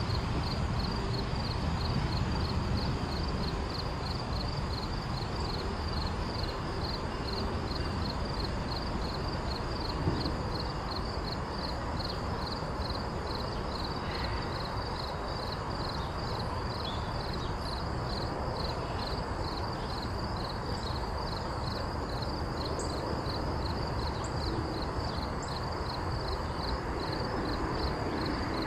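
Short freight train rolling slowly away with a steady low rumble, and a single knock about ten seconds in. Over it, insects chirp in a fast, even, high-pitched pulse.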